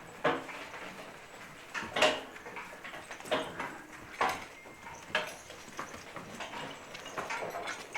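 Draft horses' hooves knocking on a barn floor, single steps roughly once a second, the sharpest about two seconds in.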